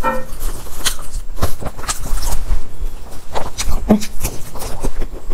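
Close-miked eating sounds of biting into and chewing a soft Chinese pastry: irregular wet clicks and smacks of the mouth, with a few louder crunch-like knocks.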